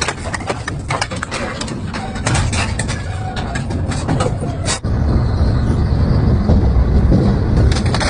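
A double-shaft metal shredder at work, its motor running under load while its blades tear and crush metal with a rapid, irregular run of cracks and crunches. About halfway through the sound switches abruptly to a steady, deep rumble of the machine grinding.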